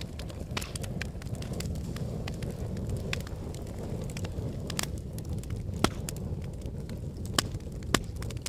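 Wood fire burning in a fireplace: a steady low rumble of flames with frequent crackles and sharp pops of burning logs, the loudest snaps about six, seven and a half and eight seconds in.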